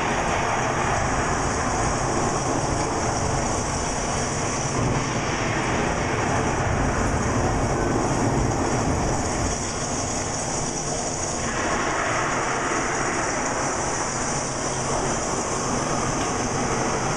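Heavy thunderstorm rain pouring steadily, a dense hiss over a low rumble. The hiss grows harsher about two-thirds of the way through.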